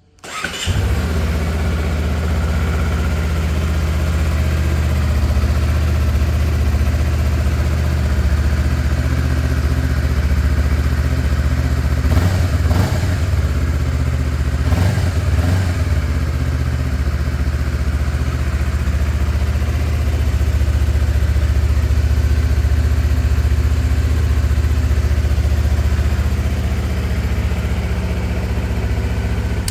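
Honda CBR250RR motorcycle engine with its standard exhaust, starting up and idling steadily, with two short throttle blips about halfway through before it is shut off at the end.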